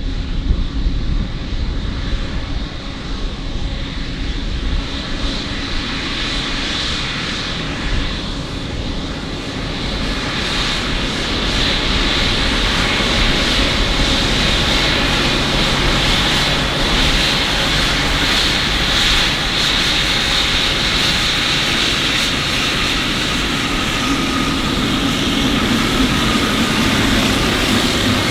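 Aircraft engines running with a steady rushing noise and a high whine. The sound grows louder about a third of the way in, then holds.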